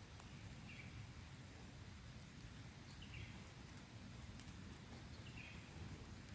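Faint outdoor quiet with a short chirping call repeated three times, about two and a half seconds apart, over a low, even rumble.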